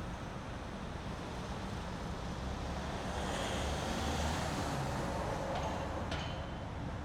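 City street traffic: a steady low rumble of engines, with a vehicle passing and the noise swelling louder around the middle. A couple of faint clicks come near the end.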